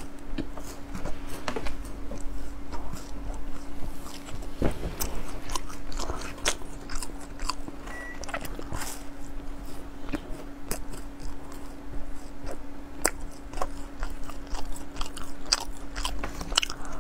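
Close-miked biting and crunchy chewing of a puffed-grain snack bar: irregular sharp crackles and crunches, with a faint steady low hum underneath.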